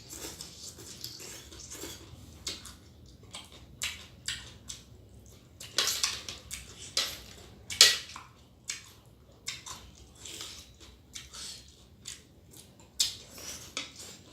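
A person eating spicy mango and blue crab salad close to the microphone: wet chewing and crunching with irregular sharp clicks and cracks, the loudest a single crack about eight seconds in.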